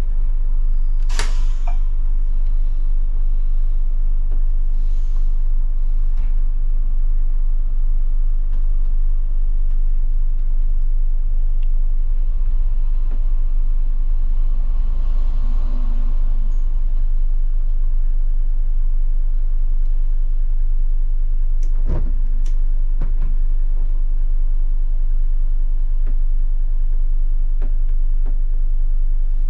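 Scania K250IB bus engine running with a steady low drone, heard from the driver's cab as the bus is driven. A short, sharp hiss comes about a second in, and two sharp knocks come close together about two-thirds of the way through.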